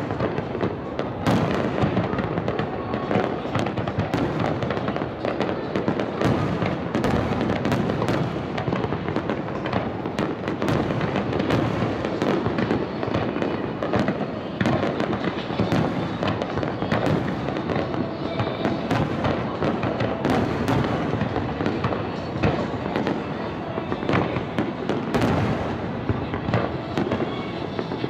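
Aerial fireworks display: a dense, unbroken barrage of shell bursts, with many sharp cracks and bangs throughout.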